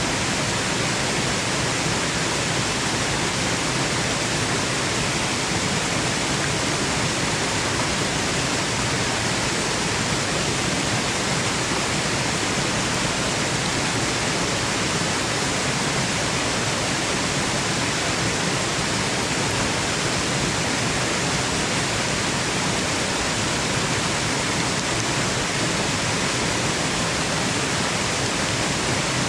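Waterfall running: a steady, even rush of falling water that does not change or break.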